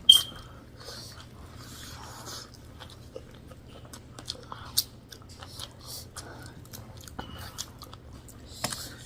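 Close-miked chewing and mouth sounds of someone eating a dal bhat meal with pork and rayo saag, with many small irregular clicks and smacks. A sharp clink that rings briefly comes right at the start and is the loudest sound.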